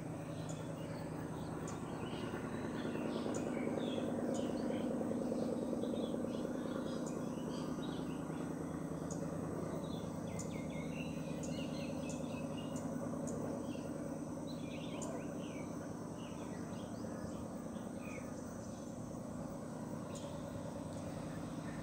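Birds chirping over a steady low hum of outdoor ambience.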